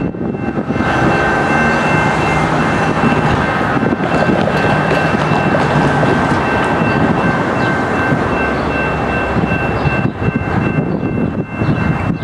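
Diesel-hauled freight train of tank cars running past, a continuous rumble of locomotive engines and wheels on the rails. Several steady high-pitched ringing tones sound over it.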